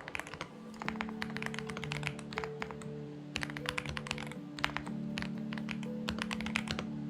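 Typing on a Xinmeng X98 mechanical keyboard: quick runs of key clicks in several bursts with short pauses between them. Soft background music with long held notes plays underneath.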